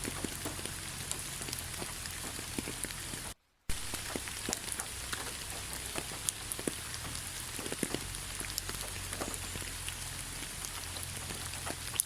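Steady rain falling, a constant patter with many separate drops tapping close by. About three and a half seconds in the sound drops out completely for a moment, then resumes.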